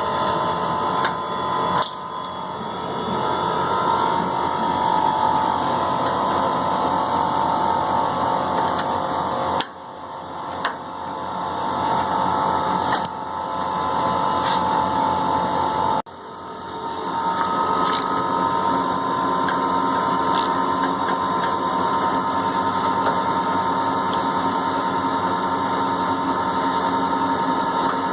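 Steady hum of a running electric machine with a held whine, broken by sudden short drops about two, ten and sixteen seconds in.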